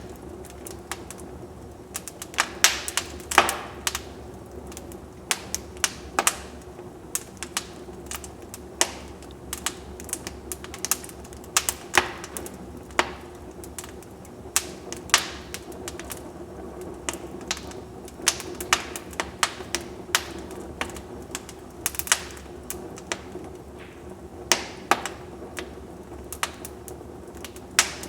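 Wood fire crackling in a fireplace: irregular sharp pops and snaps, some much louder than others, over a steady low background.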